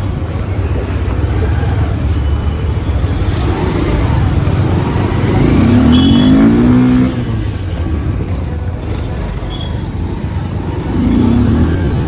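Superbike engine running under way in traffic, with a steady low rumble. About five to seven seconds in it gets louder and its pitch rises and falls, as in a rev, then drops off suddenly.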